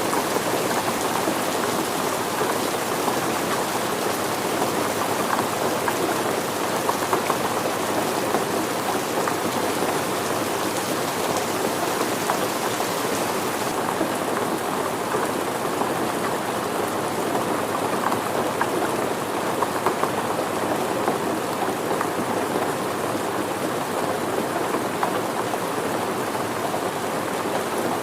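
Steady rain falling, a dense even patter of many drops landing on surfaces.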